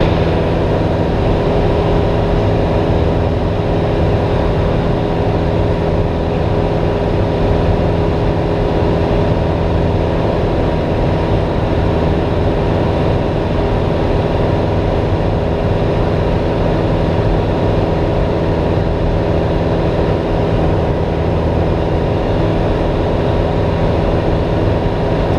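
Cessna 172S's four-cylinder Lycoming engine and propeller running at steady power: a constant, loud drone.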